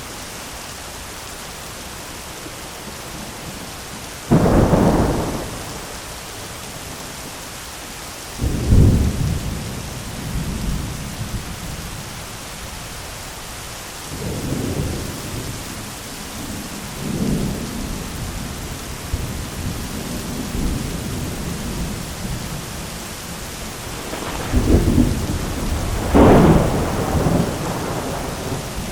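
Heavy rain falling steadily through a thunderstorm. A sudden loud thunderclap comes about four seconds in and another a few seconds later, lower rumbles follow through the middle, and a long loud peal of thunder comes near the end.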